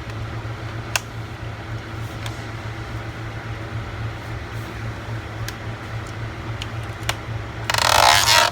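Occasional small clicks and taps as the laptop's plastic case and its screws are handled, over a steady low hum. A brief loud rasping noise comes near the end.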